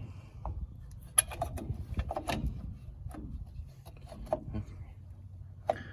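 Scattered metal clicks, taps and scraping from drum-brake shoes and springs being worked into place by hand, the sharpest click about a second in.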